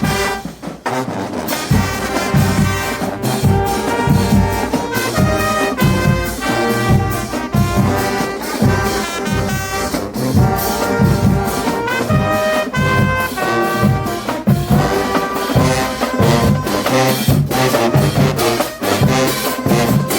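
HBCU marching band playing loudly, brass section (trumpets and trombones) carrying the tune over a steady drum beat.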